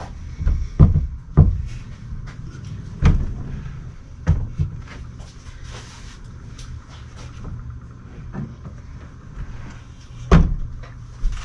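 Workshop handling noise: a series of heavy thuds and knocks, as of a pulled transmission case and tools being moved about. There are two loud knocks about a second in, more around three to five seconds, and the loudest about ten seconds in, over a low steady hum.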